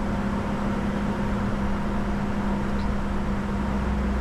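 Steady in-flight cockpit noise of a Bombardier Challenger 605 business jet in descent: an even hiss of airflow and cabin air with a constant low hum underneath.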